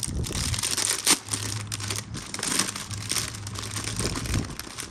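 Packaging crinkling and rustling as it is handled and opened, with a sharper click about a second in.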